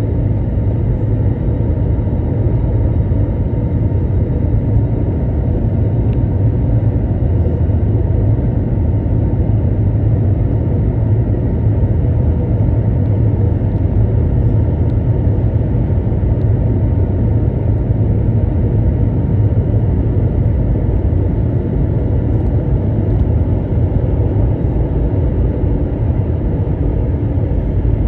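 Steady low rumble and drone of an Airbus A321 airliner heard from inside the passenger cabin: jet engine noise and airflow, with a few faint steady tones over the roar.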